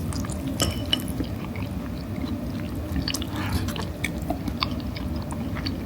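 A person chewing a mouthful of natto and rice, with scattered small wet clicks from the mouth.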